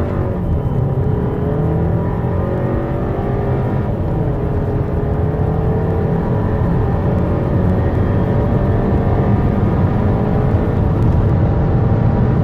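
Car engine accelerating hard in a 0-100 km/h run, its pitch climbing and then dropping back at each gearshift, several times over.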